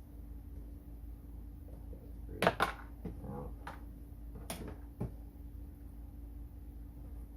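A few sharp clicks and knocks as parts of a ride-on toy car's rear axle assembly are handled, two loud ones close together about two and a half seconds in and a few lighter ones after, over a steady low hum.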